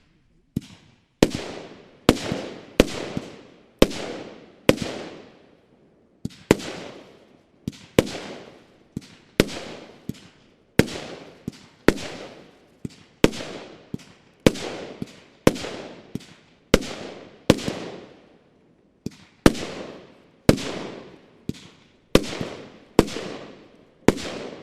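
Bonfireworks Brokade Rain, a 20-shot 25 mm firework battery, firing shot after shot at about one a second. Each shot is a sharp bang followed by a fading hiss.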